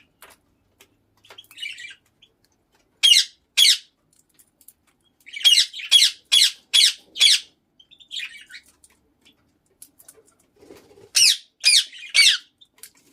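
Indian ringneck parakeet (rose-ringed parakeet) giving loud, shrill squawks in quick runs: two, then five in a row, then three, with softer chattering in the gaps.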